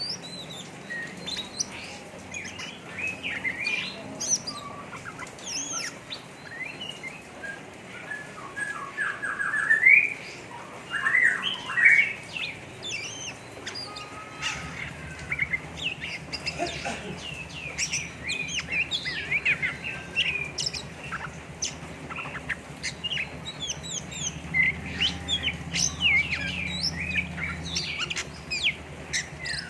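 Oriental magpie-robin (kacer) singing a rough, rapid chattering 'ngeriwik' song: dense quick chirps and short whistled notes, with faster, louder runs of notes about a third of the way in.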